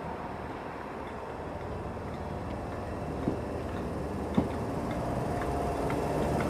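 ScotRail Class 320 electric multiple unit pulling away from the platform, a steady rumble slowly growing louder. There are two sharp clacks of wheels over rail joints about three and four seconds in.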